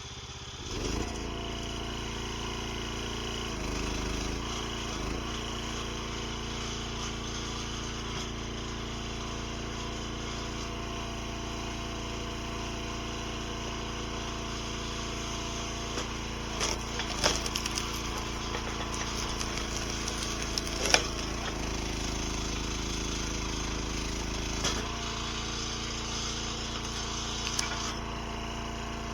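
RuggedMade 737 log splitter's engine running steadily while splitting firewood, its note shifting as the load changes about a second in and again near the end. A cluster of sharp cracks and snaps comes between about 16 and 21 seconds in, the loudest near 21 seconds, as the wood splits apart.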